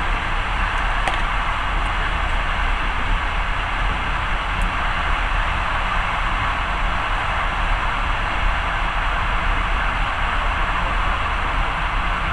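Steady running noise of a moving passenger train, heard from inside the carriage: wheels on the rails and air rushing past, with a faint tick about a second in.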